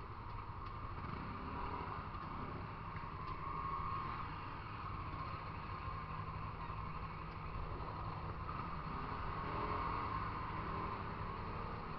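Motorcycle running while being ridden, with a steady low rumble under the engine note, which swells a little about four seconds in and again about ten seconds in.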